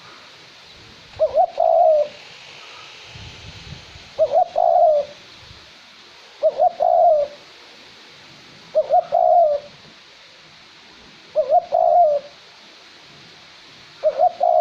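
Male red collared dove cooing: a repeated phrase of two short notes and a longer one, about every two and a half seconds, six times. A light wind hisses in the background.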